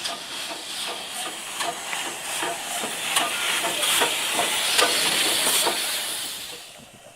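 Steam locomotive passing with a train: steam hiss over a regular beat of about two to three strokes a second, growing louder to a peak past the middle, then falling away quickly near the end.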